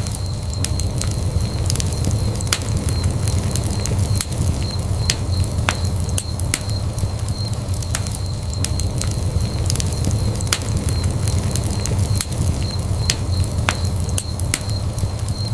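Wood fire burning in a fireplace: a steady low rumble of flame with frequent sharp, irregular crackles and pops. A faint steady high whine runs underneath.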